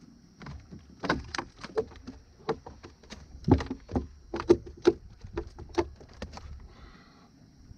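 A string of irregular knocks and clunks on a fishing boat, about a dozen sharp ones between the first and sixth second, from handling in the boat.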